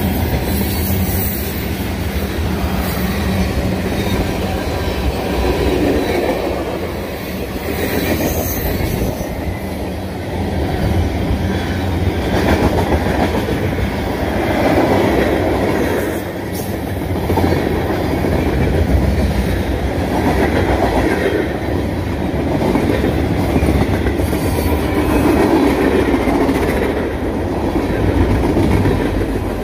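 A train, likely a CSX train, passing close by at speed: a continuous loud rumble of wheels on rail with clickety-clack over the rail joints, swelling and fading every couple of seconds as the cars roll past.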